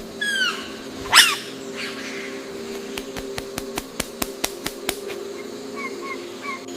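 Birds calling: a few falling whistled notes, a loud sweeping call about a second in, then a quick run of sharp clicks and some short paired chirps near the end, over a steady low hum.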